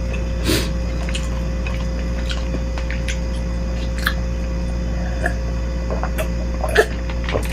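Eating sounds close to the microphone: scattered small clicks and squishy chewing noises, with a couple of louder moments about half a second in and near the end, over a steady low hum.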